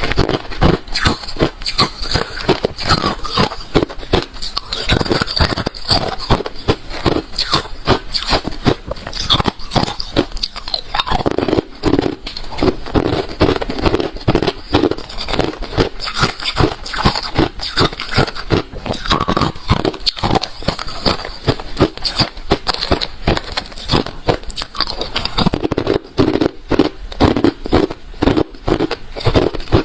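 Refrozen crushed ice being bitten and chewed, a dense run of hard, irregular crunches and cracks that keeps going with hardly a pause.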